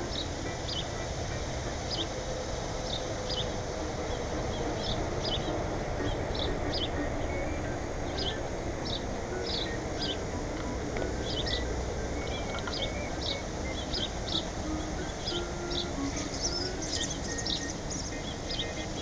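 Small songbirds chirping: short, high chirps repeated every half second or so over steady background noise, with a few higher chirps near the end.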